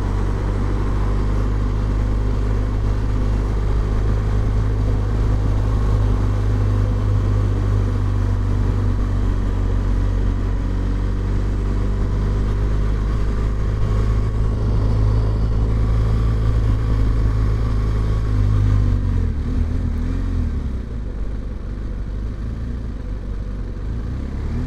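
Motorcycle engine running steadily at road speed under a haze of road and wind noise. About nineteen seconds in, the engine note dips and wavers, and then it runs quieter, as the bike slows.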